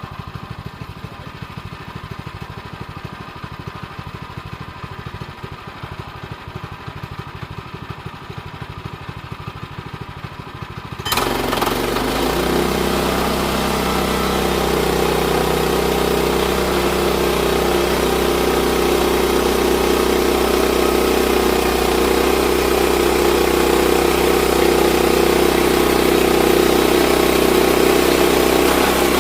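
Sawmill engine idling with a low, even pulse, then about eleven seconds in it is throttled up abruptly and runs much louder and steady at speed.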